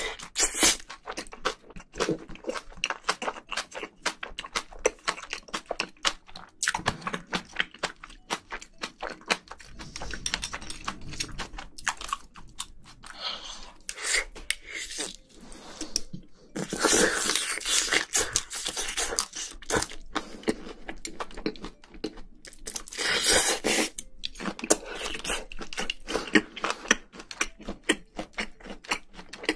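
Close-miked chewing and crunching of spicy braised seafood with bean sprouts, with rapid mouth clicks and smacks throughout and louder, noisier stretches about 17 and 23 seconds in.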